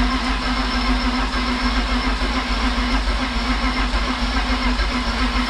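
BMW E36 engine being cranked over by its starter motor: a steady whine with an even low pulsing, running on without the engine firing. The car won't start after a head gasket replacement, and they suspect it is not getting fuel.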